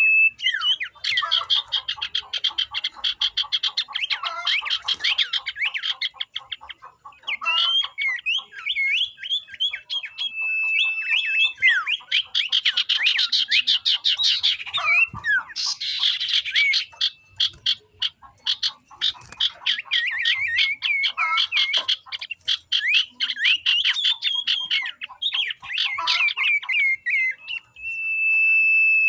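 A flock of sirtu birds calling together in dense, fast chattering trills, with a few held whistled notes. This is a lure (pancingan) recording of many young birds.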